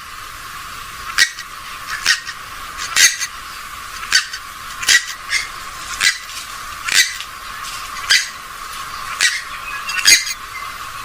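Rail calls of the swamphen and moorhen kind: about ten short, sharp, thin-sounding calls, roughly one a second, over a steady hiss.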